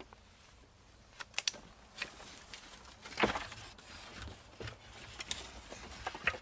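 Scattered sharp knocks and clicks, a few at irregular intervals, the loudest about three seconds in.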